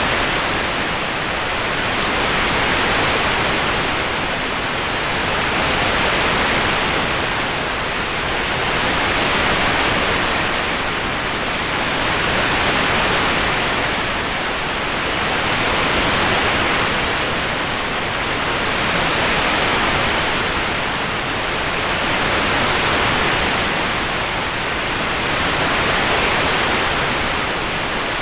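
Rain-sound ambience: an even, steady hiss like heavy rain, swelling and easing gently about every three seconds.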